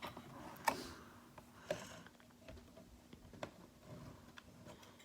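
A few faint, scattered clicks and taps of small objects being handled, the sharpest about a second in, near two seconds and midway.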